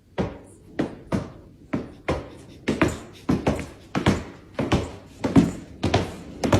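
A run of sharp knocks or thumps, uneven, about two or three a second, each with a short ringing tail.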